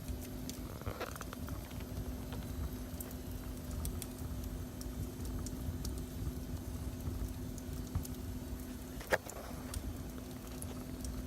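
Wood fire crackling in a fireplace, with scattered small pops and one sharper pop about nine seconds in, over a steady low rumble and hum.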